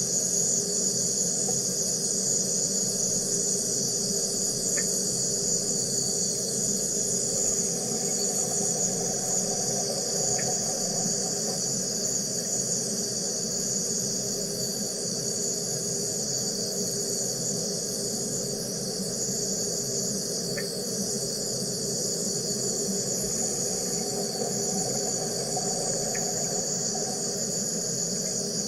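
Wire EDM machine cutting: a steady high-pitched buzz from the spark discharge with a lower hum underneath, and four faint short ticks.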